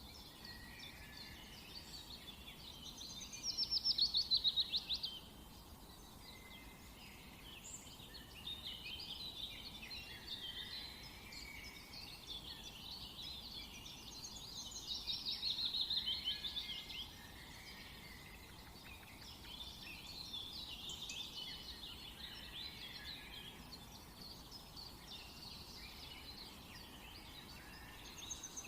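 Songbirds singing, a continuous tangle of chirps and warbled phrases, with two louder rapid trills of quickly repeated notes, one about four seconds in and another around the middle, over a faint steady background hiss.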